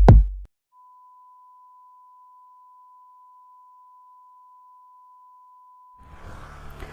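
Electronic music stops with a last drum hit, then a single steady pure tone near 1 kHz sounds faintly for about five seconds. Near the end a low rumble of background noise comes in.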